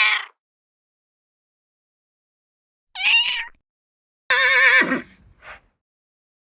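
Horse neighing: a short call about three seconds in, then a longer whinny about four seconds in with a quavering pitch that drops at the end.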